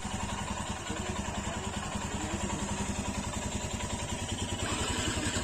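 Motorcycle engine idling steadily, with an even, rapid firing beat.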